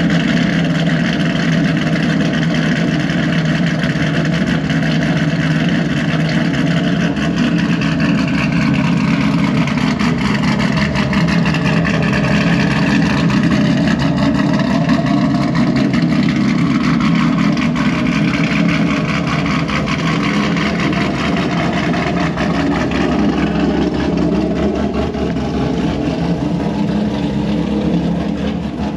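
Cammed 2018 Chevrolet Camaro SS's 6.2-litre LT1 V8 idling after a cold start, running steadily with a slight dip and recovery in pitch partway through.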